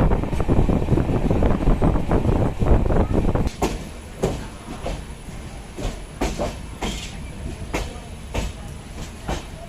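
Passenger train running along the track, heard from on board. A loud, dense rumble and rattle lasts about the first three seconds, then the sound drops to a quieter rumble with separate clicks of the wheels every half second or so.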